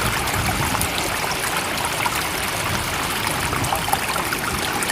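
Steady flowing water with a fine trickling, bubbling texture, even in level with no rise and fall of waves.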